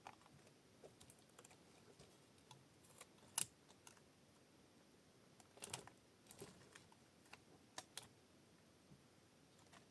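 Scattered faint sharp clicks and taps, irregular, over near silence; the loudest comes about three and a half seconds in, with a small cluster around six seconds and two more near eight.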